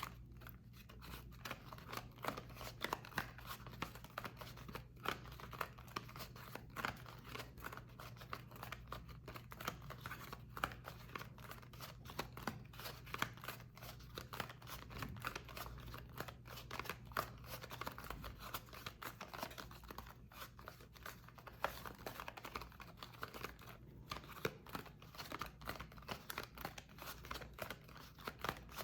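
Soap being cut and scraped: a continuous run of quick, crisp crunching and scraping strokes.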